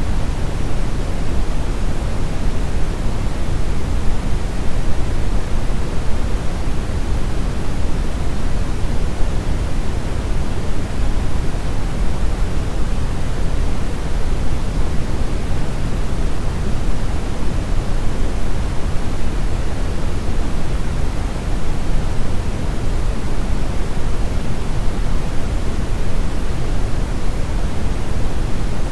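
Steady brown noise: an even, deep rushing hiss, strongest in the bass and thinning toward the highs, with no changes or events.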